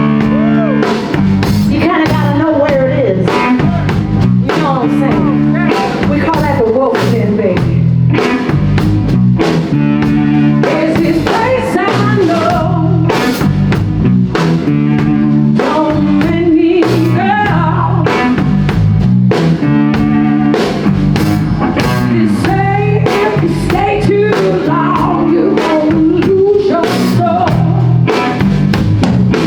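Live blues-rock band playing loudly: drum kit keeping a steady beat, a repeating bass line and electric guitar.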